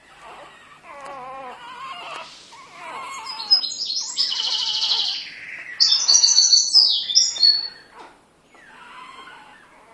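Two-week-old puppies whimpering and squealing: wavering whines at first, then louder high-pitched squeals from about three and a half seconds in until near the end.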